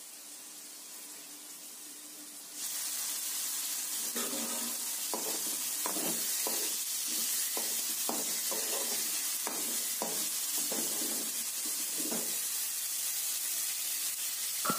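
Bitter gourd thokku sizzling in a metal kadai, with a steel spoon scraping and stirring through it in many quick strokes. The sizzle turns suddenly louder about two and a half seconds in.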